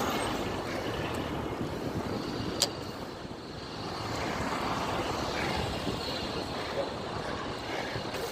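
Steady riding noise from a pedal-assist electric bike on the move: wind buffeting the hand-held microphone over a rumble of tyres on the path, with traffic-like vehicle noise. A single sharp click about two and a half seconds in.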